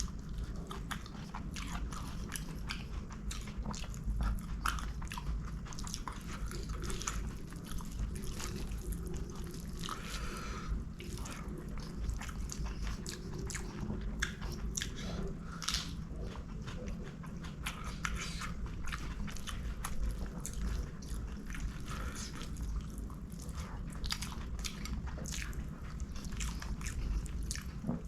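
Close-miked chewing and mouth sounds of someone eating string hoppers with curries, with many quick wet clicks and smacks throughout, over a steady low hum.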